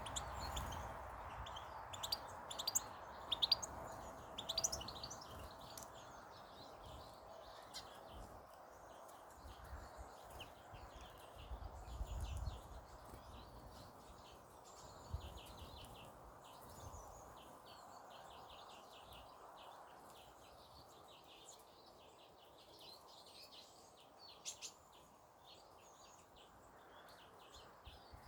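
Several small birds chirping and twittering in many short, high notes, most busily and loudly in the first few seconds, over a steady faint background hum.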